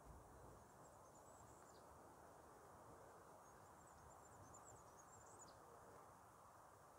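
Faint, very high-pitched songbird twittering in two short phrases, one about a second in and a longer one around four to five seconds in, over a quiet outdoor hush.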